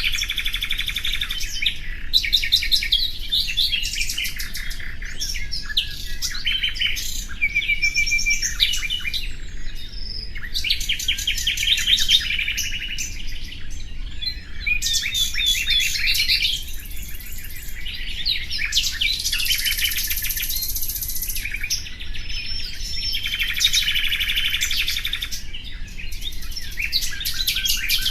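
Common nightingale singing: phrases a few seconds long of rapid repeated notes, trills and clear whistles, separated by short pauses.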